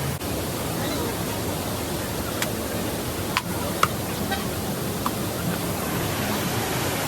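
Waterfall's rushing water, a steady even roar, with a few faint short clicks or chirps over it.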